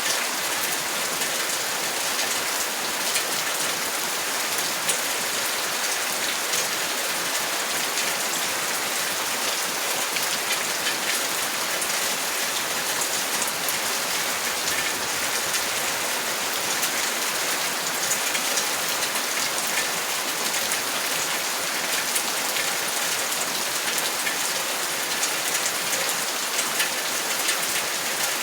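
Steady rain falling, an even hiss dotted with many small ticks of individual drops hitting a surface.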